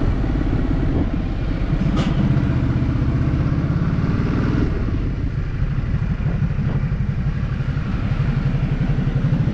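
Motorcycle engine running while riding, with a single sharp click about two seconds in.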